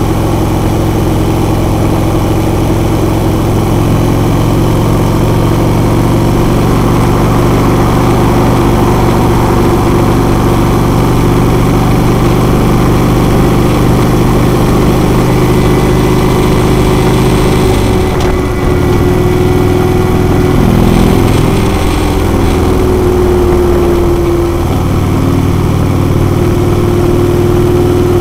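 Harley-Davidson Road King's V-twin engine running steadily while riding at road speed, with a loud, even engine note; about two-thirds of the way through the pitch wavers and shifts for a few seconds before settling again.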